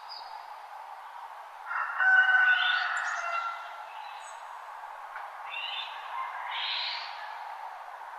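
Wild birds calling and chirping over a steady hiss. A loud burst of several overlapping calls comes about two seconds in and lasts over a second, and quieter rising chirps follow near the end.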